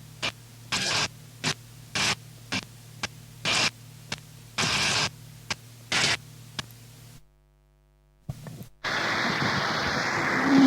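Harsh noise music: short bursts of static and hiss switched on and off in an uneven stutter over a steady low hum. About seven seconds in it cuts out for a second, then a continuous wall of static begins near the end.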